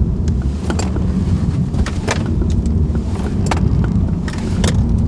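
A car driven through a cone slalom at about 30 mph: a steady low rumble of engine and road noise, broken by scattered sharp clicks.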